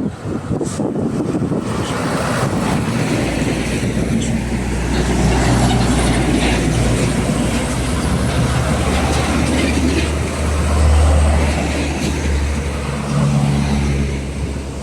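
Heavy diesel truck engine running close by, getting louder from about two seconds in, with traffic noise around it.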